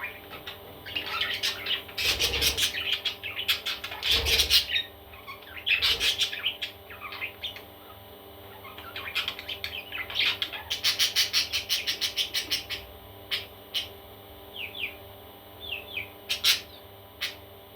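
Parrot chicks chirping in quick runs of short calls, with pauses between the runs and a few short falling chirps near the end.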